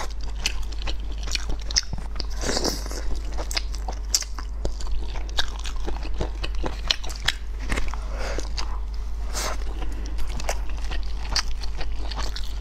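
Close-miked eating: a person biting and chewing food, with irregular small clicks and crunches several times a second over a low steady hum.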